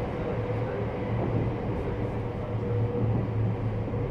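Cabin noise aboard a JR West 321 series electric train: a steady low hum with a faint steady tone above it, no change in pitch.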